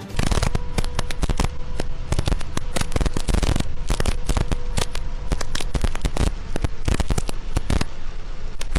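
Heavy rain pelting a vehicle's windshield and roof, picked up by a dashcam microphone as a dense, continuous crackle of drops, with a faint steady hum underneath.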